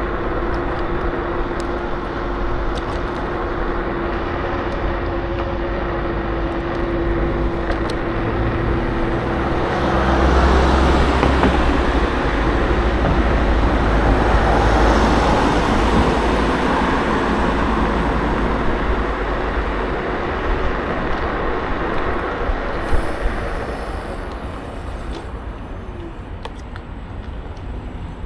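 Road and traffic noise heard from an electric scooter riding through town. A steady hum runs for the first ten seconds, then a louder rumble swells from about ten to twenty seconds and fades away.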